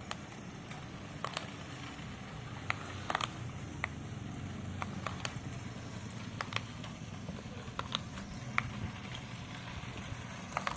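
Faint low steady hum with scattered small clicks and crackles, a dozen or so short ticks spread irregularly through it.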